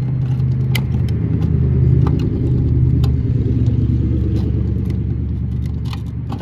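A motor vehicle's engine rumble passing close by, swelling to its loudest about two seconds in and then slowly fading, with scattered sharp clicks of metal tools and parts being handled.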